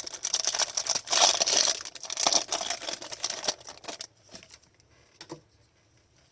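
Hockey card pack wrapper being torn open and crinkled, rustling hard for about three and a half seconds. A few light clicks of cards being handled follow.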